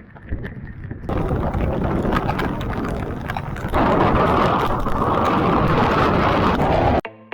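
Wind and heavy monsoon rain noise on the microphone of a moving motorcycle. It gets louder in two steps, about a second in and again near four seconds, then cuts off suddenly near the end.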